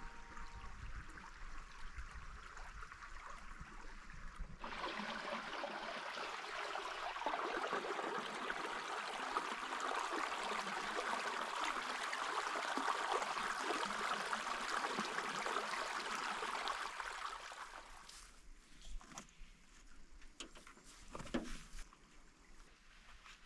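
Stream water running and trickling, with a steady, even rush that comes in louder about five seconds in. It falls back much quieter near the end, where a few light knocks can be heard.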